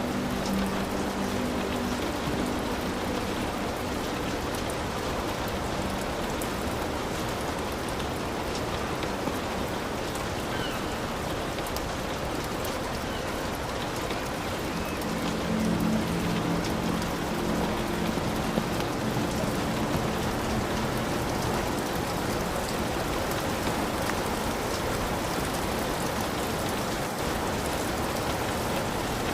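Heavy rain falling steadily on a hut's roof, an even hiss of drops that swells slightly about halfway through.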